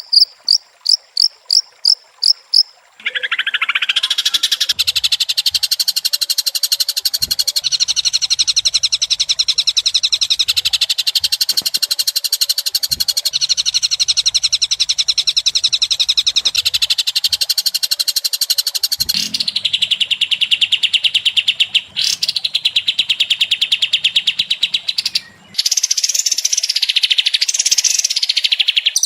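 Recorded birdsong of the kind used to set a white-rumped shama singing: a run of about eight repeated high notes, then a long, very fast, high trill with two brief breaks, and looping notes that rise and fall near the end.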